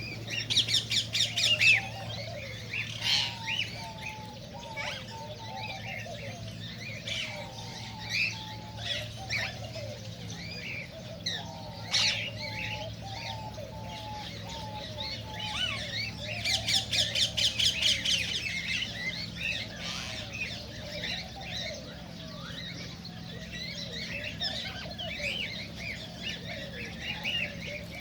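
A group of cockatiels chirping, whistling and squawking continuously. Rapid chattering runs come about a second in and again around two-thirds of the way through, over a steady low hum.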